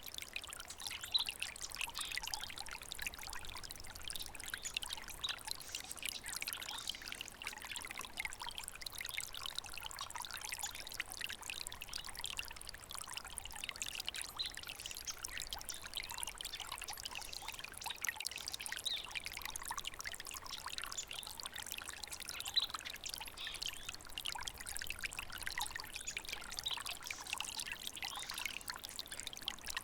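Small stream of water trickling and splashing over stones, a steady babbling with small irregular splashes.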